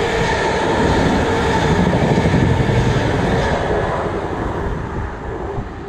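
South Western Railway passenger train running past beneath, wheels on the rails with a faint steady whine. The sound fades away after about three and a half seconds as the last carriage goes by.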